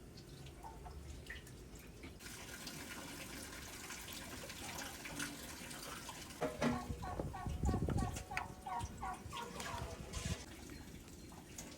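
Water running and dripping, and about halfway through a domestic fowl calling: a quick run of about nine short repeated calls, roughly three a second. A few dull knocks come in with the first calls.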